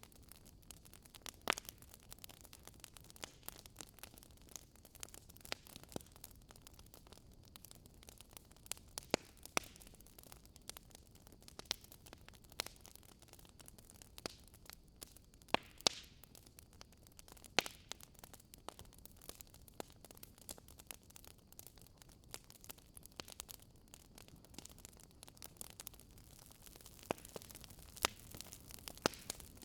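Campfire burning, wood crackling with a soft hiss and irregular sharp pops, a few louder snaps standing out.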